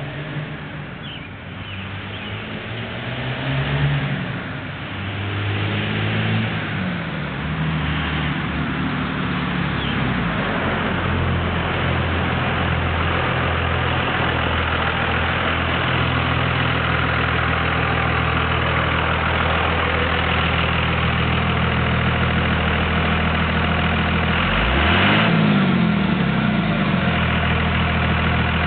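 2002 Dodge Ram's Cummins turbo-diesel running through an exhaust cutout. The engine note grows louder and shifts in pitch over the first ten seconds or so, then settles into a steady idle. About 25 seconds in there is one brief rev.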